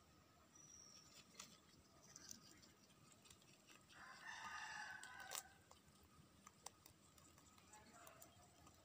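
Faint call of a bird, likely fowl, once about four seconds in, lasting a little over a second, over otherwise near silence with a few faint clicks.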